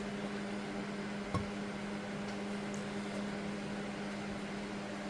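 Steady machine hum in a small room, with one light click about a second and a half in.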